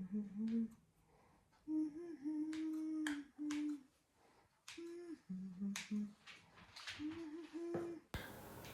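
A woman humming a tune with her mouth closed, in held notes with short gaps between phrases, with a few light clicks.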